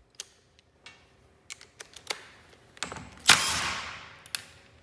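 Wrapping being pulled off a new part: a series of light clicks and rattles, then a loud rustling tear about three seconds in that fades over about a second.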